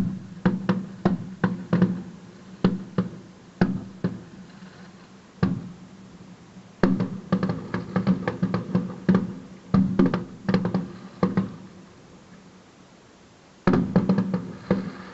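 Fireworks going off: volleys of sharp bangs and cracks in quick succession, with a lull of a second or two near the end before another volley.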